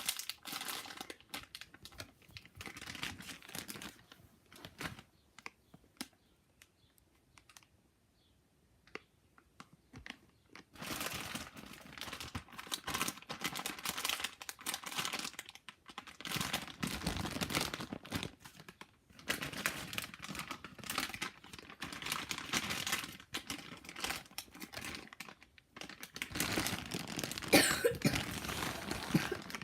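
Crinkling and rustling of plastic packaging as squishy toys are handled, in bouts with scattered small clicks. There is a quiet stretch about five seconds in, and then the crinkling returns, nearly continuous, to the end.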